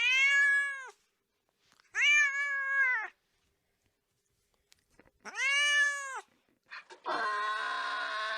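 A domestic cat meowing three times, each meow about a second long and rising then falling in pitch. About seven seconds in, a longer, lower, steady pitched sound takes over.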